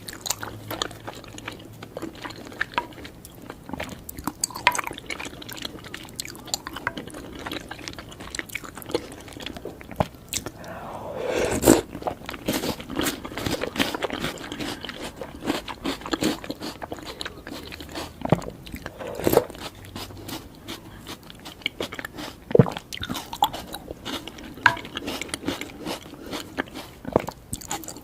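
Close-miked eating of chocolate sweets: irregular bites with crunching and chewing, the loudest crunchy bite about twelve seconds in.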